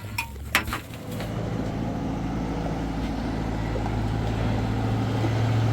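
Two sharp knocks, then an engine running steadily with a low hum that grows gradually louder.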